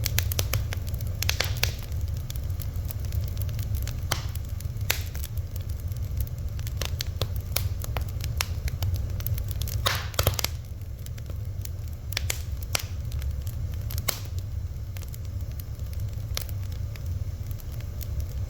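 Fire crackling, with irregular sharp pops and a denser cluster of pops about ten seconds in, over a steady low rumble.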